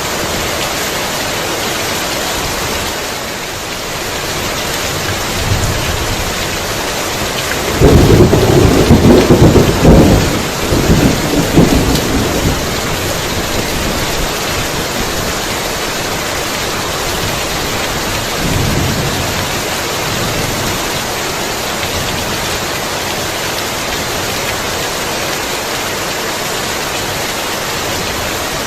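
Heavy rain falling steadily, with a loud rolling clap of thunder about eight seconds in that rumbles on for some four seconds. Fainter rumbles of thunder come shortly before it and again about ten seconds later.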